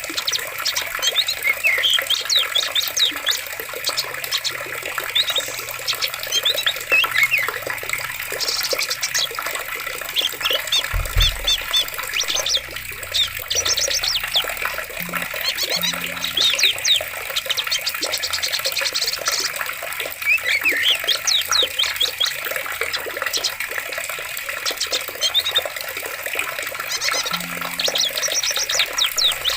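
Forest stream running with a steady rush, with many small birds chirping and trilling over it in short, frequent calls. A brief low thud about eleven seconds in.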